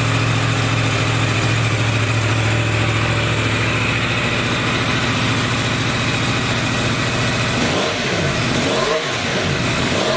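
2018 Yamaha R1's crossplane inline-four idling steadily, then revved in a few short throttle blips near the end, the pitch rising and falling each time.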